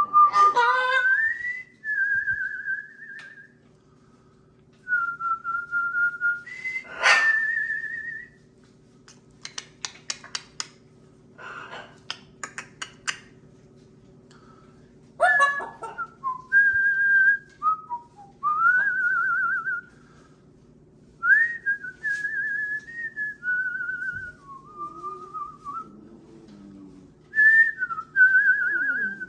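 A parrot whistling a string of short phrases: held notes, warbling trills and slides up and down, with a quick run of sharp clicks midway. A steady low hum runs underneath.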